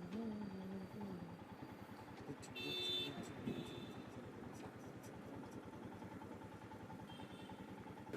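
Motorcycle engine running at a low level, with a few short high-pitched tones, the longest about two and a half seconds in.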